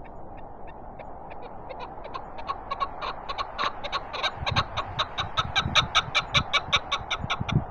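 Chukar partridge calling a run of clucking chuk notes that start slow and quiet, then speed up and grow louder to about five a second before stopping near the end. Steady cold wind rushes underneath, with low gusts buffeting the microphone.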